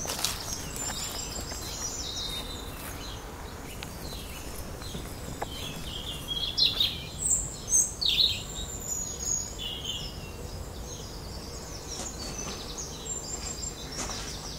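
Garden birds singing: repeated short high chirps and trills, loudest in a cluster about halfway through. Under them is a steady low outdoor rumble.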